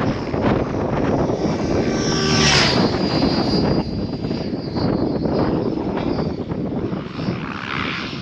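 Electric RC helicopter in flight, its rotor blades and motor whining steadily, the whine swelling to a peak about two and a half seconds in.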